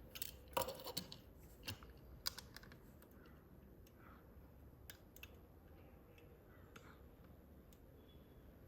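Small clicks and taps from a 1:64 diecast model tow truck's ramps and toy cars being handled and set in place. They come in a quick cluster over the first two seconds or so, then a few isolated clicks.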